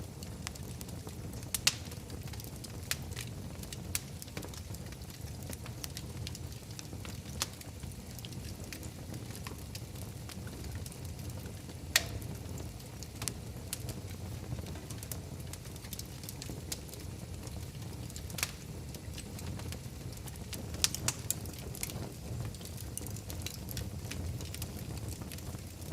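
Wood fire in a fireplace crackling: scattered sharp pops over a steady low rumble.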